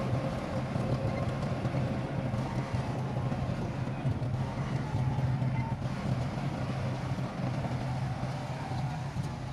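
Heavy construction machine's diesel engine running steadily: a low, even drone with a faint steady whine above it.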